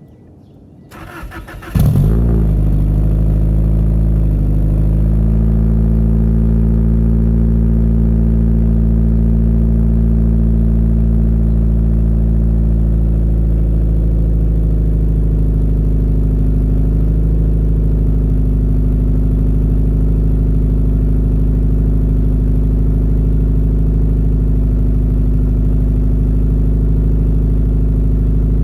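Subaru BH Outback's boxer engine on a cold start: the starter cranks for about a second, the engine catches with a brief flare just before two seconds in, then settles into a steady idle through a Kakimoto Jasma 017 aftermarket exhaust.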